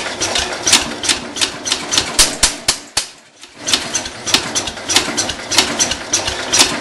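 Kohler K321 single-cylinder engine on a Cub Cadet 147 being cranked over on a cold start with full choke, chugging unevenly and not yet catching. The cranking stops briefly about three seconds in, then starts again.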